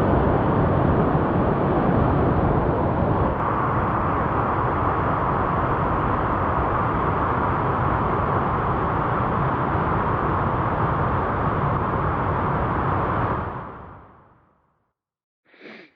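Whitewater of a river rapid rushing steadily, fading out about three-quarters of the way through.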